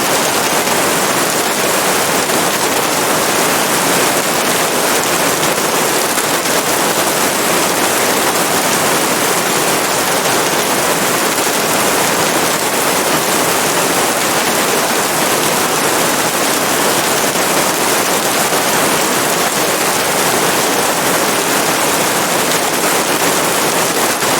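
Steady, dense rain falling, an even hiss with no let-up.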